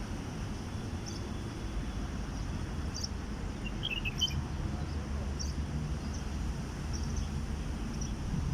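Small birds chirping: short high calls every second or so, with a quick cluster of notes about four seconds in, over a steady low background rumble.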